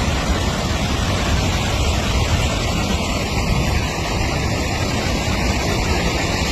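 Steady, even rushing noise of storm floodwater and wind in a flooded street, heaviest in the low range.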